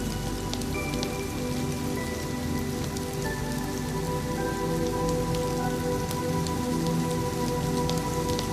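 Steady rain falling, with soft ambient music of long held notes underneath.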